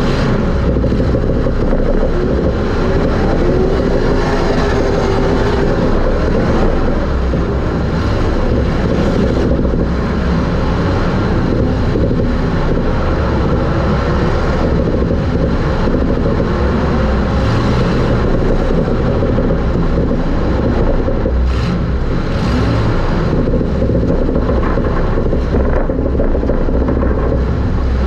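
Super stock race car's engine running hard, heard from inside the car, its pitch rising and falling a little with the throttle over a steady rumble of wind and chassis noise.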